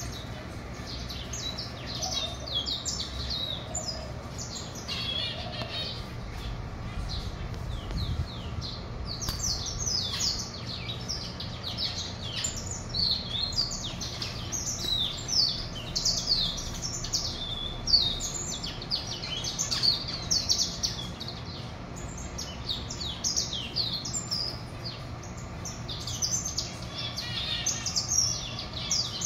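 Many small aviary birds chirping and singing, short high calls overlapping one after another, over the steady low hum of an electric fan.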